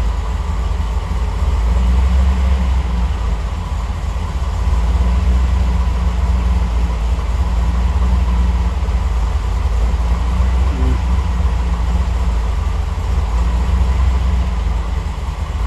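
Triumph TR8's Rover V8 idling on a fuel-injection cold-start and warm-up tune, a steady low rumble that swells and eases a little in level.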